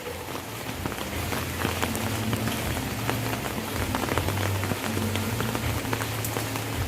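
Steady rain falling on hard surfaces, many separate drops ticking through an even hiss, over a low steady hum.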